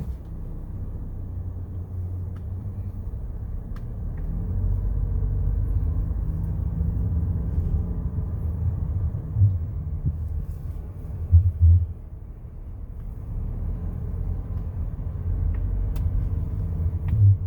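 Jaguar F-Type on the move: a low rumble that swells and eases, with a few short thumps about halfway through and again near the end.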